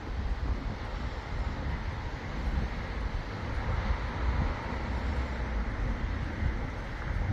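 Wind buffeting the microphone, a gusting low rumble over a steady outdoor hiss.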